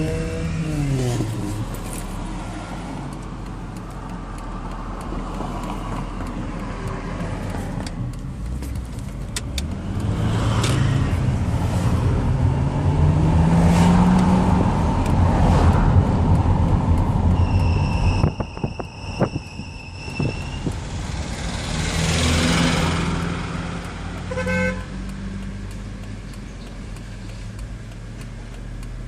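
BMW X3 E83 running, with its engine revs rising and falling, and an unexplained high-pitched steady whistle that comes and goes on its own: briefly at the very start and again for about two seconds past the middle.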